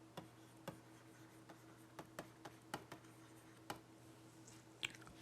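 Faint, irregular clicks and taps, about a dozen, over a low steady electrical hum.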